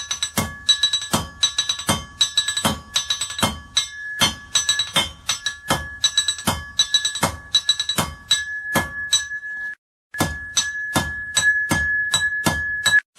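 Blacksmith's hammer striking iron on an anvil in a quick, steady rhythm of ringing metallic blows, about two to three a second. The blows break off for a moment about ten seconds in, then resume.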